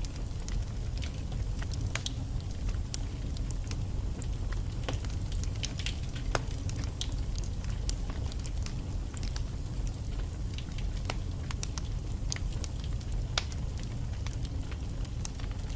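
Wood fire burning in a fireplace: a steady low rumble of flame with frequent irregular sharp crackles and pops from the logs.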